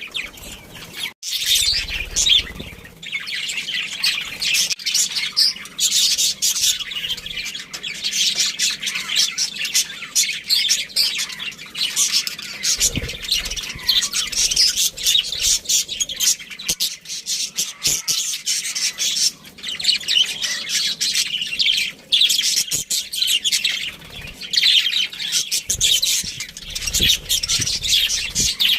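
Budgerigars chirping and chattering continuously in a dense, high-pitched stream of short calls, with a few sharp clicks mixed in.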